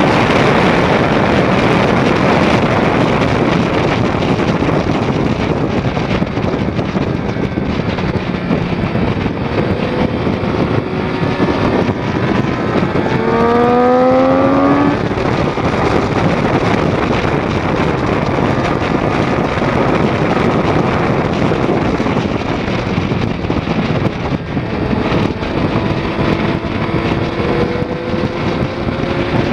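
2006 Triumph Daytona 675's inline-three engine running hard on track under heavy wind rush on the microphone. About halfway through, the engine's pitch climbs steeply for a couple of seconds and then breaks off, and it climbs again near the end.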